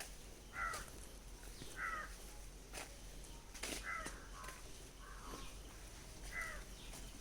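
A bird calling outdoors: about four short, clear calls a second or two apart, with a few softer ones between them.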